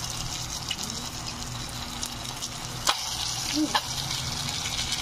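Chicken fingers frying in hot oil, a steady crackling sizzle, with two sharp clicks a little under three seconds in and just before four seconds.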